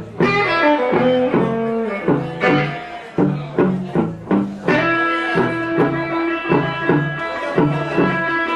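Live electric blues band playing an instrumental break: guitar lead lines over a repeating bass figure and a steady drum beat, with one long held note from about halfway through.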